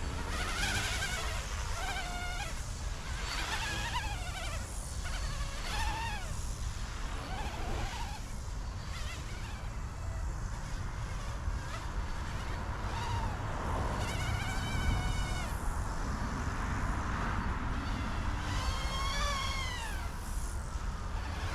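E150 micro RC helicopter's direct-drive brushless motor and rotors whining in flight, the pitch gliding up and down again and again as the helicopter is manoeuvred. The owner puts its unsteady flight down to a gyro that still needs setting.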